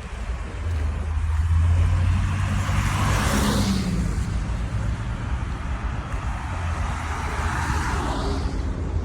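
Road traffic with a steady low rumble, and two vehicles swishing past, one about three seconds in and another near the end.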